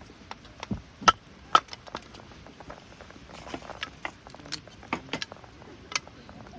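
A series of sharp knocks and clicks at irregular intervals, the loudest few in the first two seconds and more near the end.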